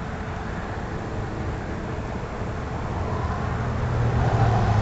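Steady low rumble of road traffic, growing louder about three seconds in as a vehicle draws near.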